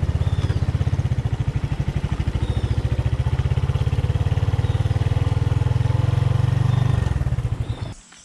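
Motorcycle engine running at low revs with a fast, even pulse, then shut off shortly before the end.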